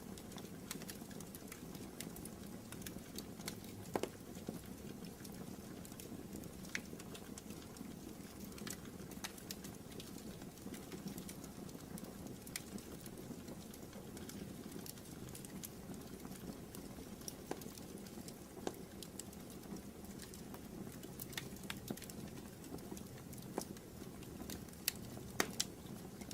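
Wood fire burning in a fireplace: a steady low rush of flames with irregular crackles and sharp pops, a few of them louder.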